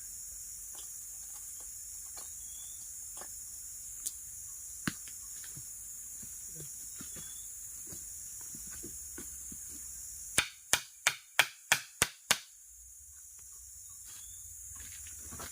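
Seven quick, sharp chopping strokes, about three a second, like a blade biting into wood. They sound over a steady high drone of forest insects.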